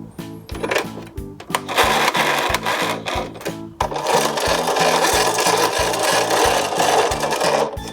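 Toy garbage truck running at speed, a dense rattling whir in two spells, the second longer and cutting off near the end, over background music with a steady bass line.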